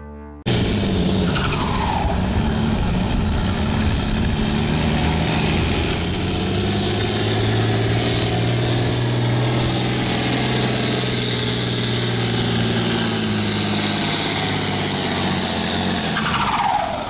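Modified farm pulling tractor running flat out under load, a loud, steady engine sound, with a falling whine shortly after the start and again near the end.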